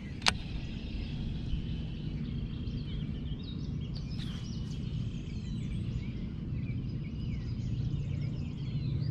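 Small birds chirping and twittering over a steady low rumble, with one sharp click shortly after the start.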